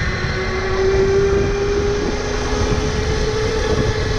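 Tuttio Soleil 01 electric dirt bike's motor whining under way, its pitch rising slightly about half a second in and then holding steady, over wind rumble on a helmet-mounted microphone.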